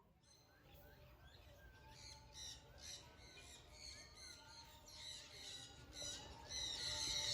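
Many birds squawking and chirping at once, a dense overlapping chorus of short repeated calls. It grows steadily louder and is loudest near the end.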